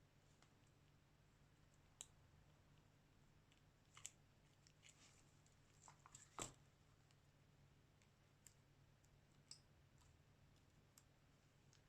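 Near silence with a faint steady hum and scattered faint clicks and taps, the loudest a little past six seconds in: small tools and parts being handled during a smartphone screen replacement.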